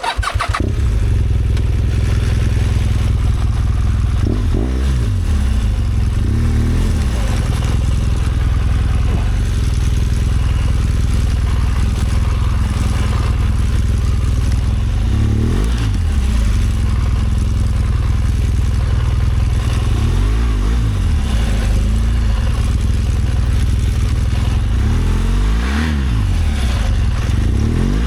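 BMW R1200GS Adventure's boxer-twin engine running steadily under way. Its pitch dips and climbs again about four times as the rider rolls off and opens the throttle.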